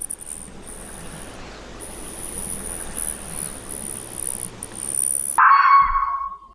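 A high, steady insect trill with short breaks, like crickets, over a soft outdoor hiss. About five seconds in it cuts off and a loud howl sounds, breaking off just before the end.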